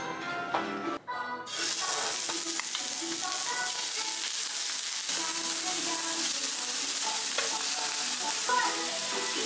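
Fresh oysters frying in oil on a hot electric griddle plate: a steady sizzle that starts about a second and a half in, with soft background music underneath.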